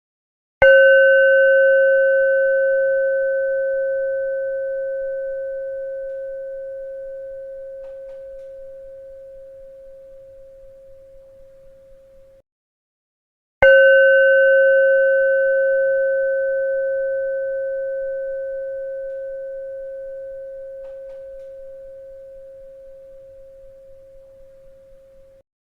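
A bell struck twice, about thirteen seconds apart. Each strike rings a clear, pure tone that fades slowly over some twelve seconds and then cuts off abruptly, as in a repeating loop.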